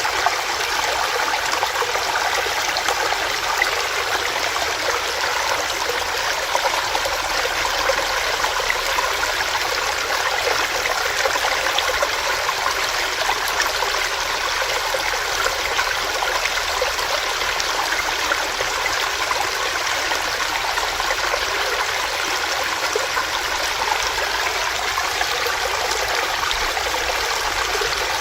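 A small stream running over rocks, a steady dense rush and babble of water.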